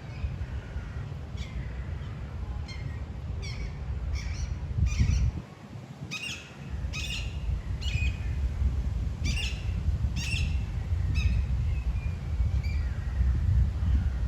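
A bird gives a series of short, harsh squawking calls, about a dozen of them at irregular intervals. Under the calls, wind rumbles on the microphone. The rumble is the loudest sound and dies down briefly about halfway through.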